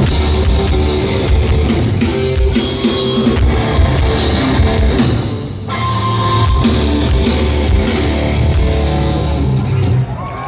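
Live heavy rock band playing loudly with distorted electric guitars, bass and drum kit, with no vocals; the music breaks off about ten seconds in.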